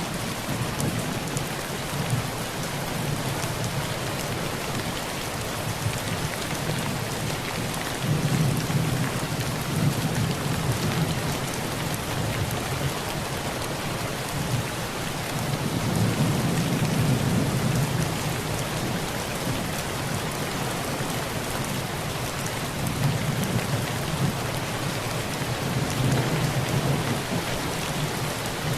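Heavy rain falling steadily on a tin roof, with low rolls of thunder swelling three times, about eight, sixteen and twenty-four seconds in.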